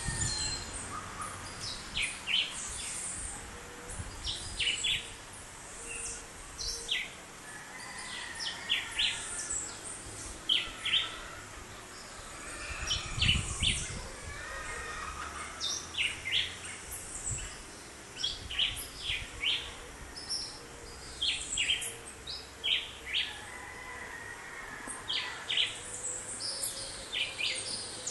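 Several birds chirping and calling in a tree, with short, sharp high notes repeating throughout. There is a brief low rumble about thirteen seconds in.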